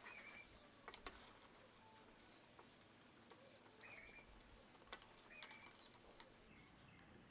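Near silence: faint background tone with a few short, high chirps and scattered light clicks.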